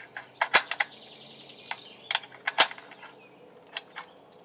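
Rifle cartridges being pressed one by one into a DuraMag AR-15 magazine by hand: a series of irregular sharp clicks, two of them louder, about half a second and two and a half seconds in.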